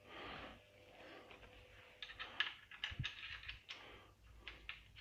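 Faint scattered clicks and light metallic taps of small bolts being started by hand to fix a brush-cutter engine to an outboard motor leg, with a soft knock about three seconds in.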